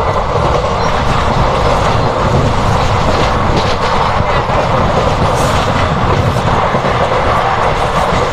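Steady rumble and clatter of a moving passenger train's wheels on the rails, heard from its open door, while a second train passes in the opposite direction on the next track.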